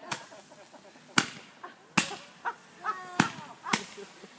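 Fireworks going off in a string of about six sharp, loud cracks spread unevenly over four seconds, each with a short echoing tail.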